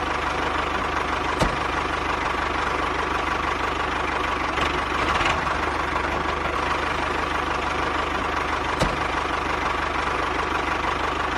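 Small electric motor of a homemade model running steadily with a high whine and a fast low rattle, with two brief clicks.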